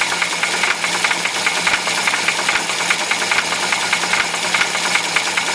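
UZAM-412 inline-four petrol engine running at a steady speed with a rapid, regular knock, several strikes a second.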